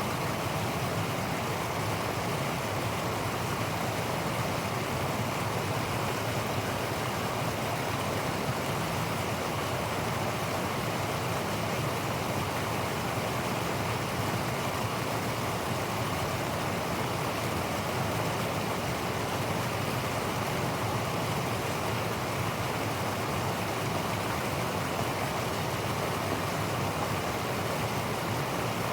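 Waterfall: water falling and rushing with a steady, unbroken roar of even noise that holds the same level throughout.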